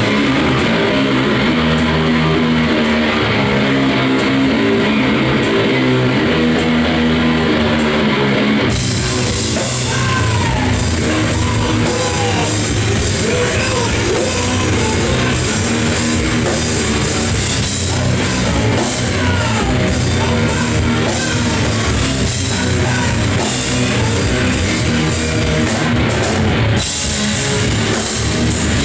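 A live noise-rock band of distorted electric guitar, bass and drum kit playing at full volume. About nine seconds in, the sound turns brighter and fuller at the top.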